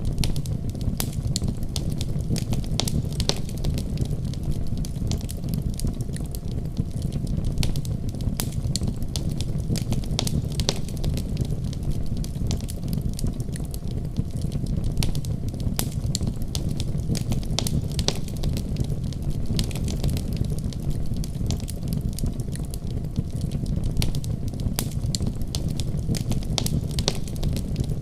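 Fire crackling in a fireplace: frequent, irregular sharp crackles and pops over a steady low rumble of the flames.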